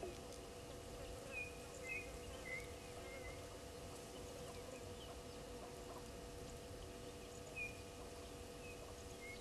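Faint short bird chirps in two brief runs, a few seconds apart, over a steady low hum of outdoor ambience.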